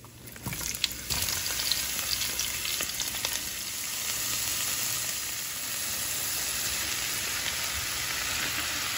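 Sliced onions and garlic dropped into hot oil in a frying pan: a few sharp crackles as they land about half a second in, then a steady loud sizzle of the onions frying.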